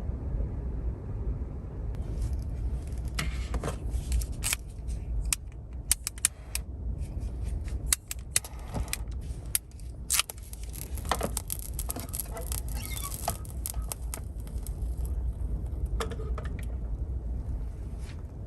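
Strong wind rumbling steadily around a kei car. From about two seconds in until near the end, a run of light clicks, knocks and jingling.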